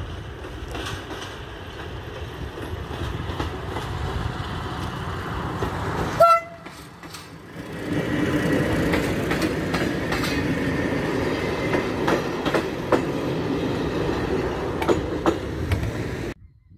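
Passenger train approaching, its running noise growing, with a short horn blast about six seconds in. Then the carriages pass close by with wheels clacking over rail joints, until the sound cuts off suddenly near the end.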